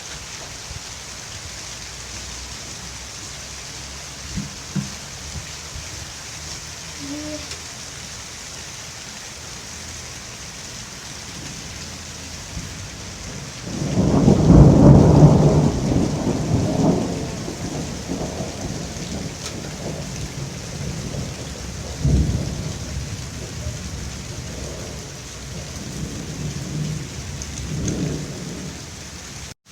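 Heavy rain falling steadily through a thunderstorm. A loud peal of thunder comes about halfway through and rumbles on for several seconds, a sharper clap follows about two-thirds of the way in, and lighter rumbles come near the end.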